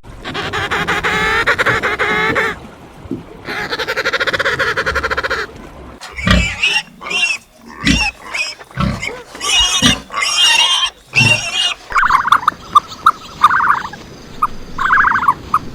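Farm animal calls in turn: two long drawn-out pitched calls, then a run of short sharp cries with low grunts, then a string of short repeated calls.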